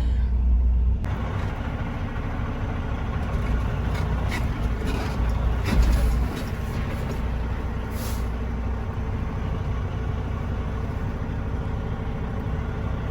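Semi-truck diesel engine running steadily at low speed while the rig reverses into a loading dock, heard from inside the cab, with a brief hiss about eight seconds in.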